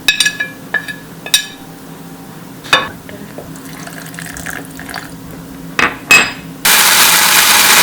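Spoon and ingredients clinking against a grinder jar, then an electric mixer grinder switching on near the end and running loud and steady, grinding the chutney.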